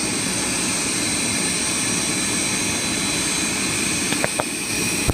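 Jet airliner engines running steadily on the ground: a constant rush with several high, steady whining tones over it. A couple of short clicks near the end.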